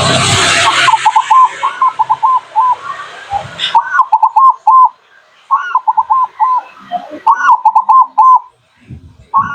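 Zebra dove (perkutut) cooing: quick runs of short, clipped notes repeated in phrases, a pause between each run. For the first three and a half seconds a loud rushing noise lies over the calls and then cuts off suddenly.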